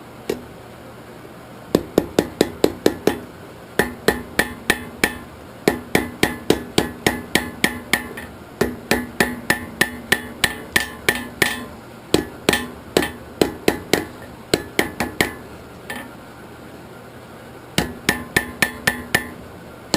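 Hammer striking hot steel on an anvil in quick runs of strikes, about five a second, each blow ringing, with short breaks between runs and a longer pause near the end. A steady hum sits underneath.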